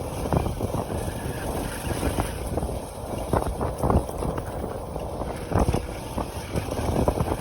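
Motorcycle running while being ridden, with wind buffeting the microphone and irregular knocks and rattles.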